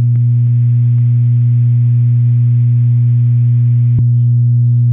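Peavey 6505+ tube guitar amp head humming loudly and steadily at a low pitch with a row of overtones, the hum it makes when switched out of standby into play. The owner traced the fault to a bad preamp tube.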